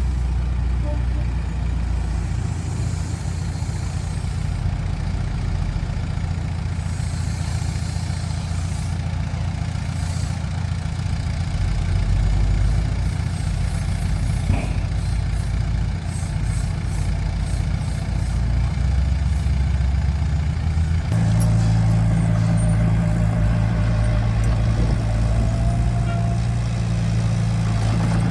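Bulldozer's diesel engine running steadily. About two-thirds of the way through, the engine note steps up to a higher pitch and holds there.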